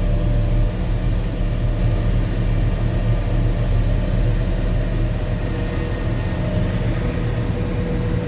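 Volvo L70H loader with a snow blower attachment, its diesel engine running steadily with a low drone and a steady whine on top, heard from inside the cab.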